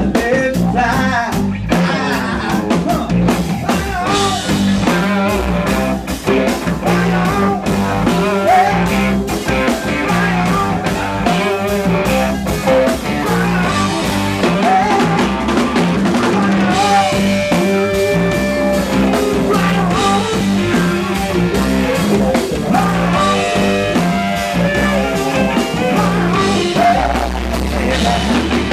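Live rock band playing: drum kit, bass and electric guitar, with a steady, driving bass line.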